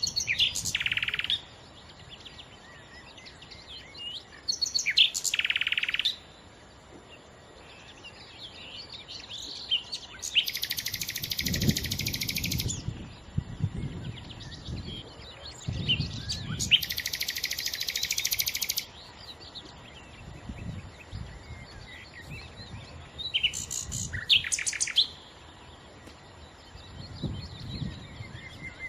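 Nightingale singing in separate phrases with pauses of a few seconds between them, including two longer phrases of fast, rapidly repeated notes.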